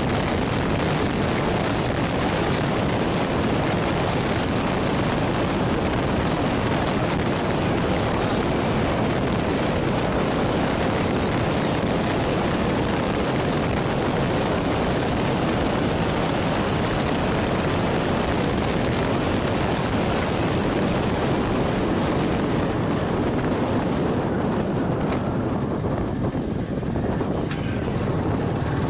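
Yamaha R15 V3 motorcycle being ridden: its 155 cc single-cylinder engine runs steadily under a constant rush of wind on the microphone. The hiss eases a little near the end.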